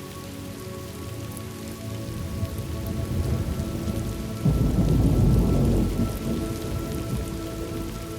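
Thunderstorm ambience: steady rain with a low rumble of thunder that swells a couple of seconds in, is loudest around the middle, then fades.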